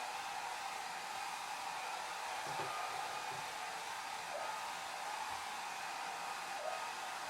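Hair dryer blowing steadily: an even, unbroken whooshing hum with no change in speed.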